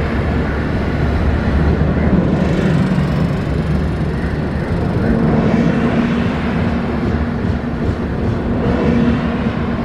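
Steady rumble of electric trains as an express led by a WAP-7 electric locomotive approaches, with a faint hum that comes in about halfway and again near the end.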